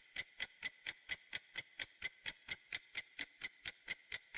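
Ticking clock sound effect: a steady run of sharp ticks, about four a second.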